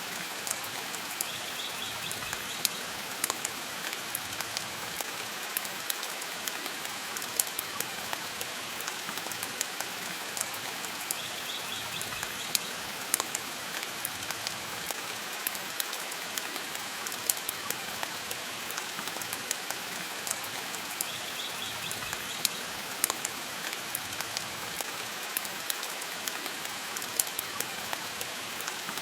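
Steady rain hiss with scattered sharp pops and crackles of a wood fire burning in a stone fireplace. A faint short high chirp recurs about every ten seconds.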